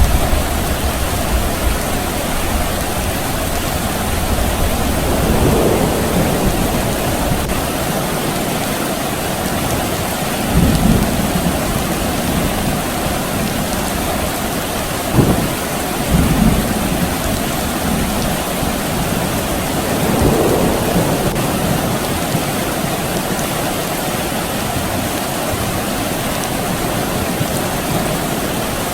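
Steady rain falling, with several low rolls of distant thunder swelling and fading, one of them short and sharper near the middle.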